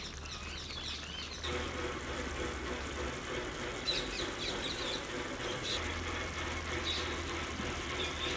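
Birds chirping and twittering, busily for the first second and a half and then in scattered single chirps, over a steady hiss that grows fuller about a second and a half in.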